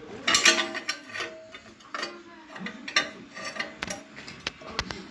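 Metal parts clinking and knocking together in a string of short, irregular knocks, as when steel pieces of a stove door are handled.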